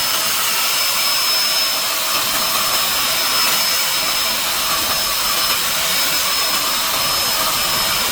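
Paint spray gun running continuously, a steady rushing hiss of air with a faint steady whine under it.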